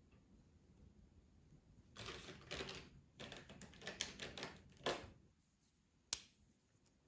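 Colouring supplies handled on a desk: a flurry of small clicks and rustles about two seconds in, lasting some three seconds, then one sharp click near the end.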